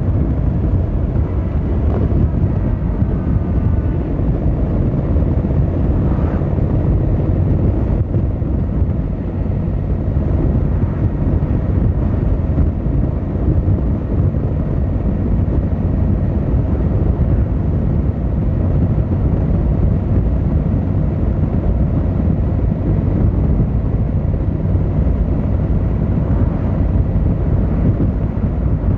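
Yamaha XVZ1300 Royal Star's V4 engine and exhaust running steadily while the motorcycle is under way, heard from the rider's position.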